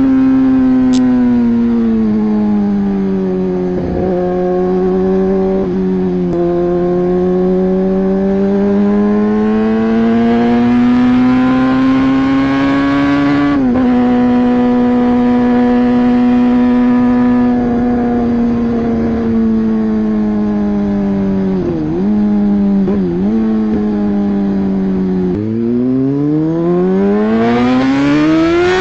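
Hero XPulse 200 4V's single-cylinder four-stroke engine running under way, its pitch rising and falling with throttle and gear changes. There is a slow climb, a sudden drop about halfway through as it shifts gear, two quick dips later, then another drop and a steep rise in revs near the end.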